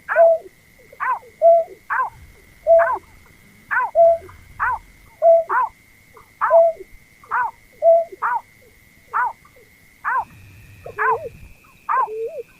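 Berkik (pekung) bird calling: a rapid series of sharp down-slurred notes, about two a second, over a faint steady high whine that steps up slightly about ten seconds in.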